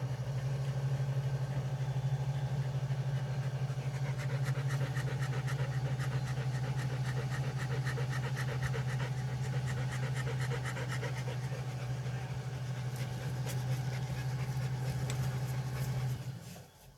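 Tractor engine running steadily with a fast, even pulse, then shutting off abruptly about sixteen seconds in.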